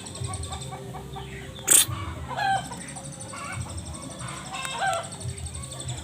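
A hen clucking in short, scattered calls, with one loud, sharp sound a little under two seconds in.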